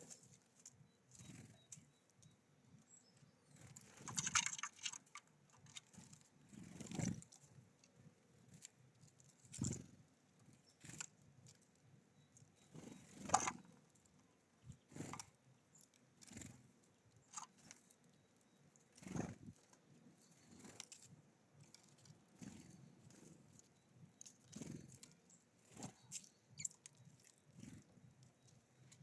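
Small birds at a feeder: faint, scattered taps and rustles from pecking and landing, with a short flurry about four seconds in and a few louder knocks.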